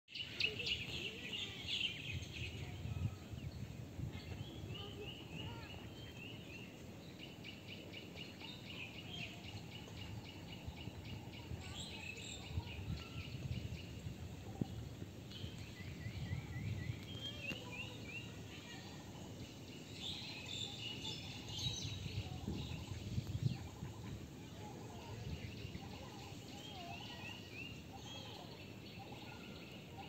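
Outdoor birds singing and calling: repeated runs of quick, short high notes, with lower calls joining in the second half, over a low background rumble.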